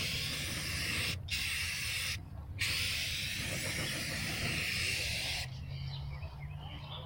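A spray hissing in three bursts, broken by two short gaps, the last burst about three seconds long, over a steady low hum.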